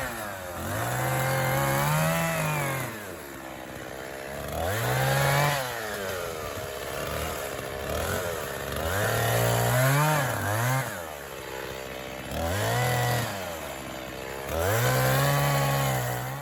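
Echo CS-501P 50cc two-stroke chainsaw bucking white pine logs: the engine revs up to full throttle for a second or two per cut, then drops back toward idle between cuts, about five times over. The sound cuts off suddenly at the end.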